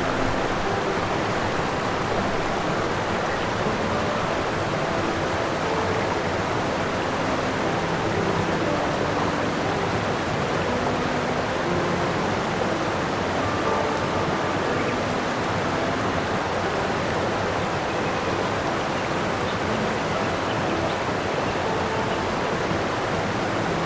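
Steady rushing noise of running water, even in level throughout, with faint short tones scattered through it.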